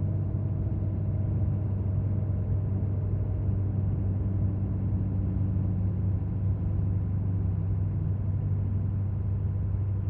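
Ford 6.7 Powerstroke V8 turbo-diesel running steadily at high idle, with its radiator fan winding down part-way through. The fan dropping off is the sign that the engine is warming up after a cold start.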